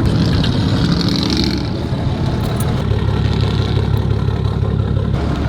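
Pickup truck engine running steadily at low speed, a loud low hum.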